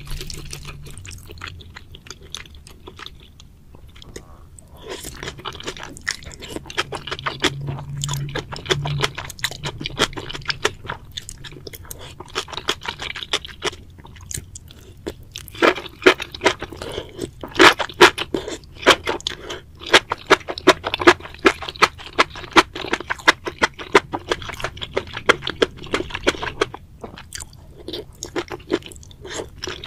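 Close-miked mouth sounds of chewing spicy braised seafood with bean sprouts, enoki mushrooms and octopus: wet smacks and crisp crunches in quick, irregular clicks. The crunching gets louder and sharper about halfway through.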